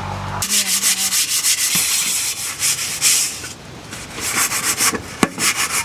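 Dishes being scrubbed by hand: rapid back-and-forth scraping strokes, about five a second, that pause about three and a half seconds in and start again, with a few sharp clicks near the end. A steady low hum stops about half a second in.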